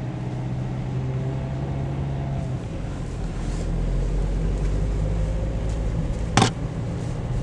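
Car engine and road noise while driving, with a steady low drone whose note changes about two and a half seconds in. A single sharp click or knock comes near the end.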